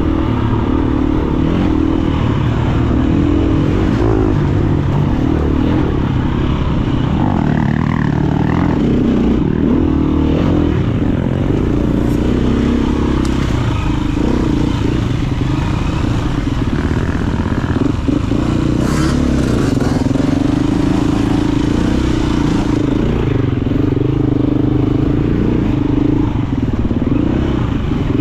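KTM EXC-F 350 single-cylinder four-stroke enduro engine running hard, its revs rising and falling continuously as the bike is ridden.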